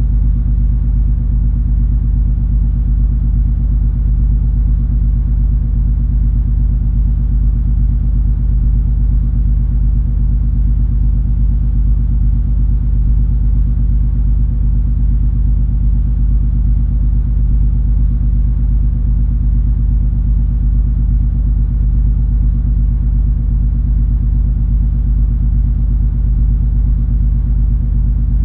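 Steady low rumble of the cruise ferry MS Color Magic underway: a deep, unchanging engine-and-hull drone with a few held low hum tones.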